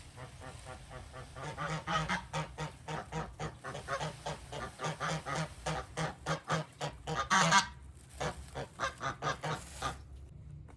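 Domestic geese honking: a rapid run of repeated calls, loudest a little past the middle, that stops shortly before the end.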